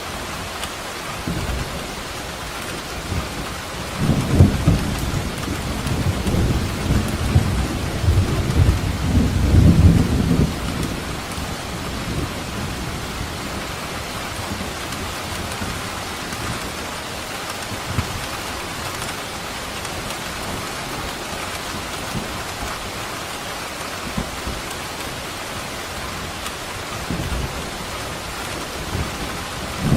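Steady heavy rain falling, with a roll of thunder rumbling in about four seconds in, swelling for several seconds and dying away by about twelve seconds.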